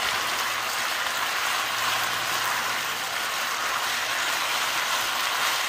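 Beef and snow peas sizzling in a hot nonstick wok-style pan as they are stir-fried with a wooden spatula; a steady, even hiss.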